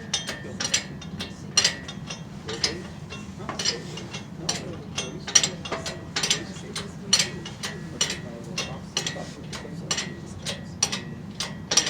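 A hoist's ratchet clicking repeatedly at an uneven pace as it lifts an engine.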